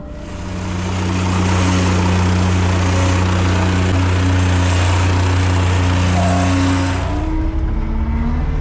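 Heavy earthmoving machine's diesel engine running hard with a loud rushing noise. It builds over the first second or so, holds steady, and eases off about seven seconds in.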